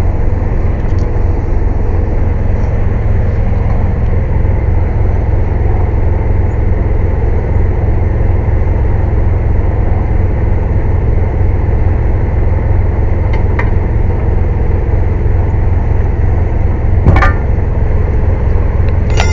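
Air compressor running loudly and steadily with a deep rumble. A sharp knock comes about 17 seconds in.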